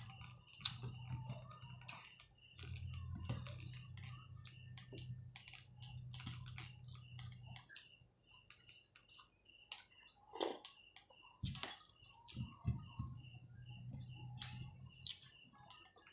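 A person eating rice and noodles close to the microphone: chewing, with many short wet clicks and lip smacks and a few louder smacks in the second half. A low hum runs underneath and drops out about halfway through.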